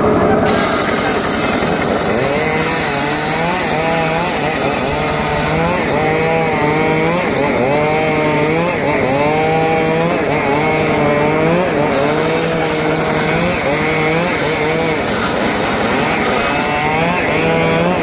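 Petrol chainsaw cutting wood, its engine pitch rising and falling over and over as the chain bites and eases. A harsh cutting hiss comes and goes in two long stretches.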